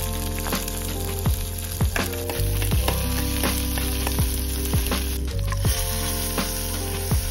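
Onion, ginger and whole spices sizzling as they fry in hot oil in a pot. Background music with a steady beat plays over it.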